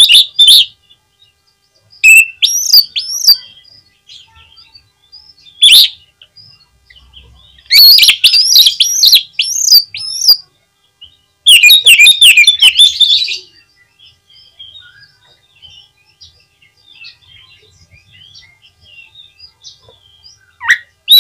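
Oriental magpie-robin (kacer) singing vigorously: loud song phrases of one to three seconds made of quick rising and falling whistled notes, with short pauses between them. Fainter scattered notes fill the longer gap in the latter part before a loud phrase returns right at the end.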